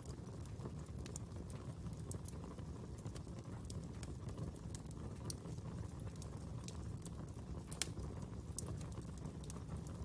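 Wood fire burning: a steady low rumble of flames with scattered sharp crackles and pops, one louder pop near the end.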